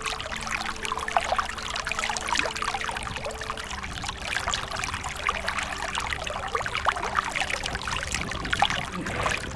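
Water trickling and splashing in a steady crackle, with soft held background music tones underneath that shift about four seconds in.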